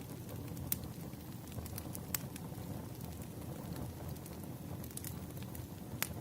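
Wood fire crackling: a steady low rush with irregular sharp pops and snaps, the loudest a little under a second in, at about two seconds and near the end.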